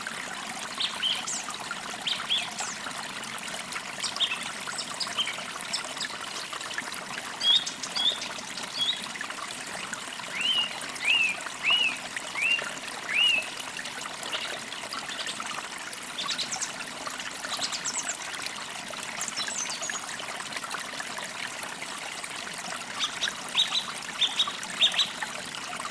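Several wild songbirds chirping and singing over a steady trickle of running water. About ten seconds in, one bird gives a run of five repeated falling whistled notes, and near the end a quick series of sharp chirps follows.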